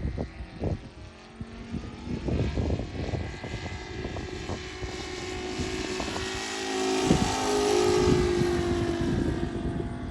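ASP 400 radial glow engine of an RC Yak 55 model plane running steadily in flight, a continuous purr that grows louder about seven seconds in as the plane passes closer.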